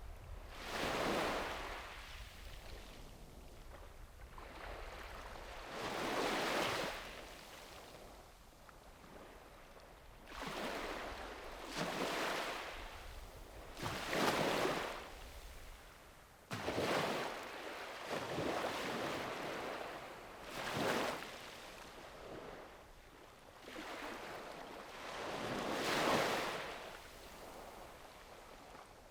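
Small sea waves breaking and washing up a beach, each surge swelling and fading every few seconds, about nine in all.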